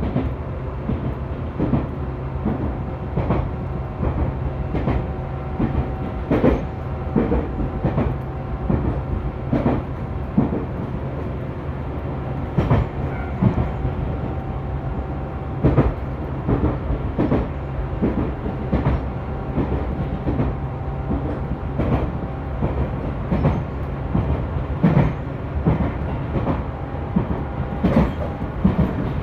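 Inside a Tobu 10000 series electric train motor car running along the line: a steady low running hum with the wheels clacking over rail joints every second or so.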